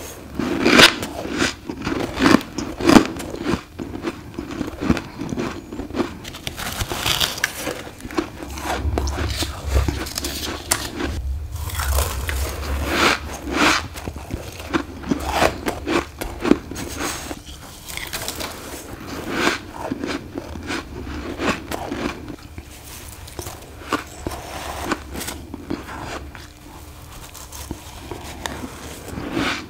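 Someone biting and crunching chunks of built-up deep-freezer frost ice, a long irregular series of crisp crunches close to the microphone.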